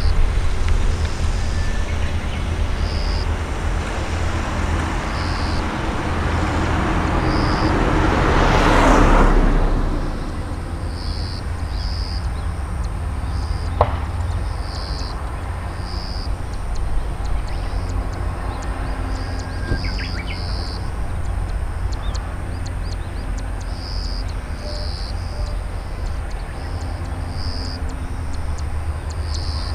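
A vehicle passing close by: a rushing noise that swells to a peak about nine seconds in, then falls away quickly, over a steady low rumble. Short high chirps repeat every second or two throughout.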